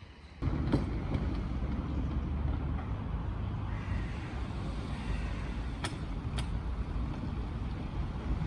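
Electric commuter train passing over a level crossing: a steady low rumble of wheels on rail that starts suddenly about half a second in, with a few sharp clicks.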